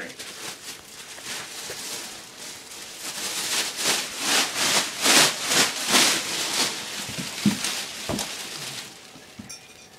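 Old linoleum flooring being cut and pulled up: a run of repeated rasping scrapes, loudest in the middle, with a couple of knocks near the end.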